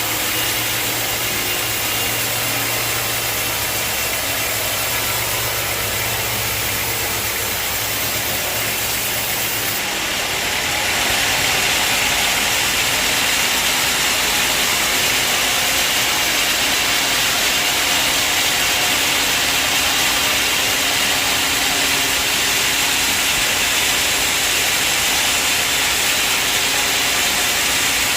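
Sawmill machinery running steadily. About ten seconds in, a low hum drops out and the sound grows a little louder and hissier.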